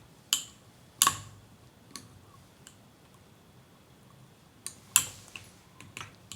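Irregular light clicks and taps of a stirring utensil against a container while dry yeast and warm water are mixed, about nine taps in all, the sharpest about a second in and about five seconds in.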